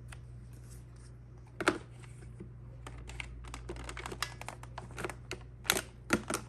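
Irregular clicks and knocks of the Shark Navigator Lift-Away vacuum cleaner's plastic parts being handled and fitted together, with a louder knock about a second and a half in and a cluster of louder knocks near the end.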